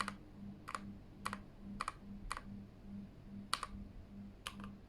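Single key presses on a Keychron K8 mechanical keyboard, clicking out one at a time about every half second, with a quick run of keystrokes near the end.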